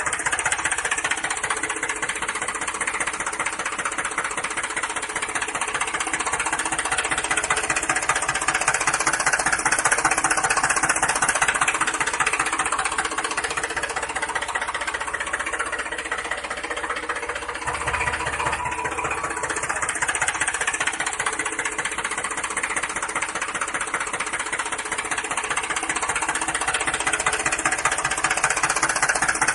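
A small engine running steadily with a fast, even chugging pulse, its loudness swelling and easing a little now and then.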